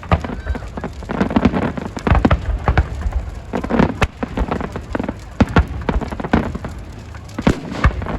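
Fireworks and firecrackers going off in irregular sharp cracks and bangs, several a second, over a murmur of crowd voices.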